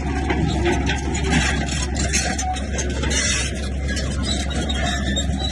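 Heavy earthmoving machinery running, with a steady low engine drone under scraping and clattering that is busiest around the middle.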